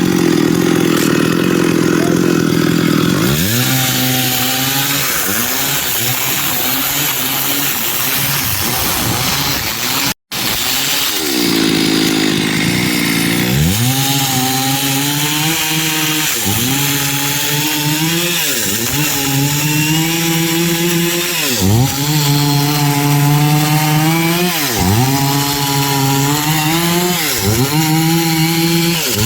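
Stihl MS382 two-stroke chainsaw running at high revs under load while cutting wood, its pitch sagging and recovering every two to three seconds in the later part. It cuts out for a split second about ten seconds in.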